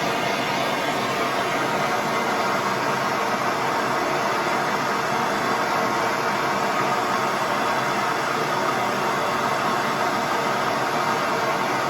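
Gas torch flame burning with a steady, unbroken hiss, heating bent steel on a pit bike so it can be bent straight.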